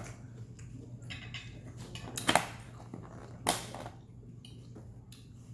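Close-up eating sounds: chewing with two loud, wet mouth smacks about two and three and a half seconds in, over a steady low hum.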